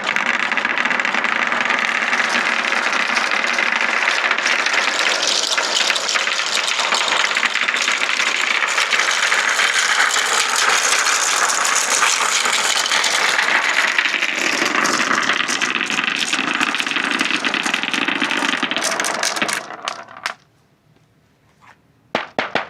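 Many marbles rolling and clattering down wooden ramps of a marble run in a dense, continuous rattle. The clatter thins out and stops about twenty seconds in, leaving a few last clicks near the end.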